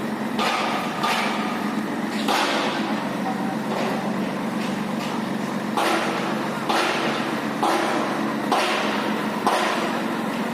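Heavy diesel engine running steadily, with a series of short sharp knocks or hissing clunks about once every second or so over it.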